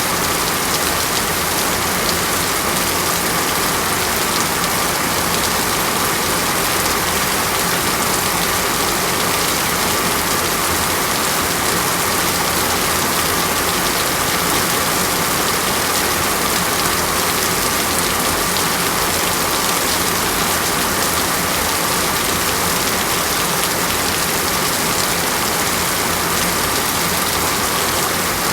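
Steady rain falling: an even, unbroken hiss with no thunder or pauses.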